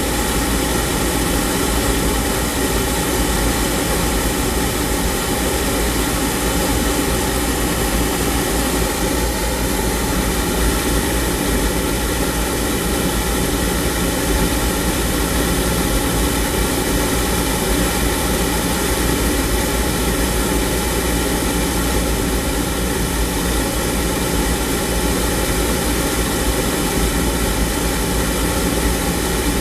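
Oil furnace's gun-type oil burner running, a steady, unchanging roar of blower and flame.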